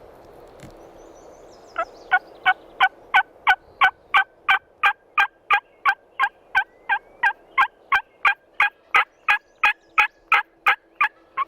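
A long, loud run of turkey yelps, about three a second. It starts about two seconds in and goes on for some nine seconds, each note dropping in pitch.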